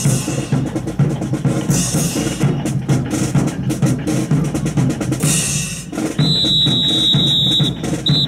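Marching percussion section playing a drum cadence, with bass drum, snare rolls and cymbal crashes about two seconds in and again about five seconds in. Near the end a high, steady whistle tone holds for about a second and a half, followed by a short second one.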